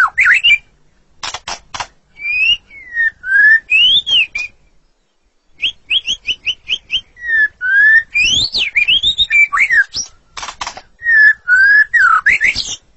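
White-rumped shama (murai batu) singing: loud whistled phrases of rising and falling notes, broken twice by short harsh rattles. Around six seconds in, after a pause of about a second, comes a quick run of about eight short clipped notes.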